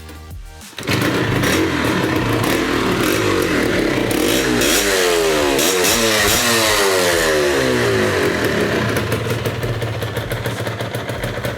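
Motorcycle engine revving loudly, starting suddenly about a second in, its pitch sweeping up and down through the middle and easing off near the end.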